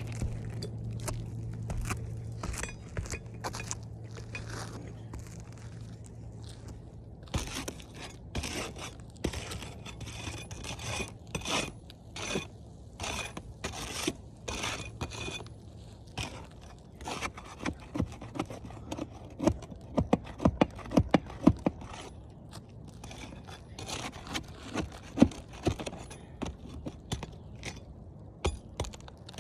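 Irregular scraping and sharp clicking of objects being handled during hand repair work, with a fast run of loud clicks about two-thirds of the way through. A low steady hum runs under the first seven seconds.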